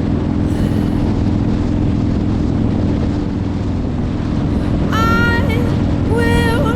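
Motorcycle engine running steadily at cruising speed, with wind rushing over the microphone. Near the end a singing voice comes in over it.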